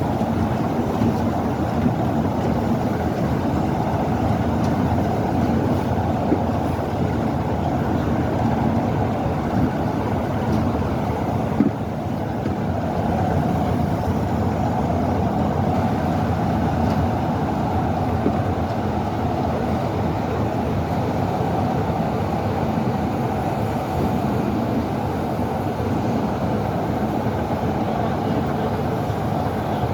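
Steady low rumble of a heritage railway train running, with a single brief knock about midway through.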